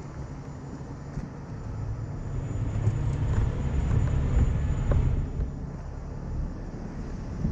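Heavy truck engine running with a low rumble that swells for a few seconds in the middle and then eases back.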